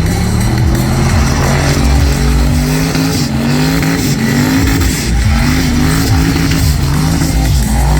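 Twin-turbo LS1 V8 in a Toyota Starlet burnout car, revved hard and repeatedly during a burnout, its pitch rising and falling about once a second over the steady noise of spinning tyres.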